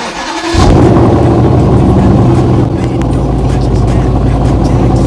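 Ford Mustang GT V8 engine that comes in suddenly and loudly about half a second in, then runs steadily with a deep, even note and eases off slightly about three seconds in.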